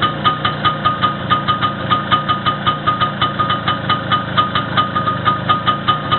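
Engine running steadily at idle on its first start after a rebuild, with a new connecting-rod small-end bushing and a new piston group. A sharp, even tick comes about five times a second over the running.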